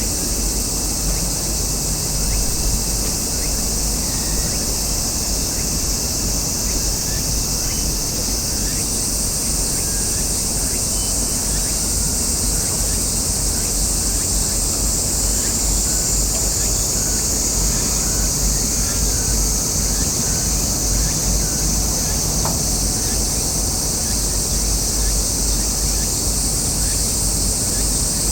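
Cicadas buzzing in a steady high chorus, over a constant low rumble.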